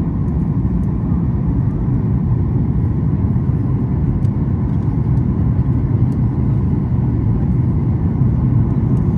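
Steady low rumble of a Boeing 737-8 MAX cabin in flight, the drone of airflow and the engines heard from an economy seat.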